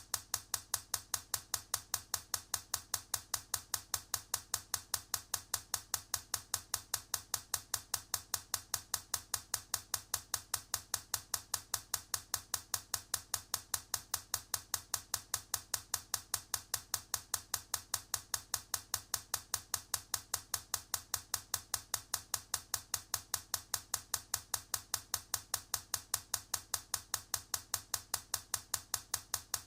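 A steady train of identical sharp clicks, about four to five a second, evenly spaced and all at the same level, like a looped clicking sound effect.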